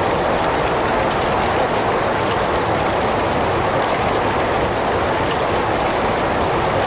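Heavy rain falling steadily, a dense even hiss with no distinct drops, thunder or other events.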